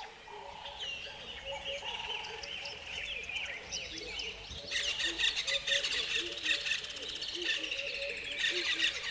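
Several backyard birds calling and chirping at once, with a denser burst of rapid chirping starting about five seconds in.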